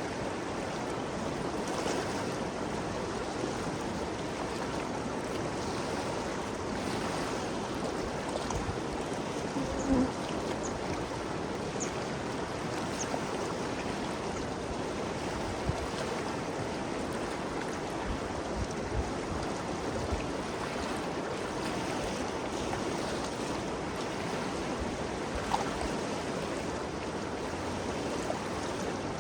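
The Ganges River flowing: a steady rush of moving water, with one short louder sound about ten seconds in.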